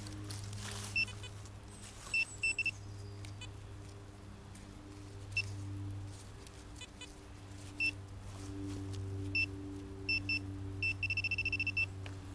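Metal detector's low warbling target tones over a steady hum, with a handheld pinpointer's short high beeps; near the end the pinpointer beeps in a fast run, about eight a second, as it closes in on a small metal target in the soil.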